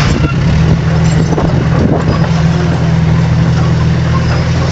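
Diesel engine of a heavy earthmoving machine running steadily at an even pitch, with a mechanical clatter over it.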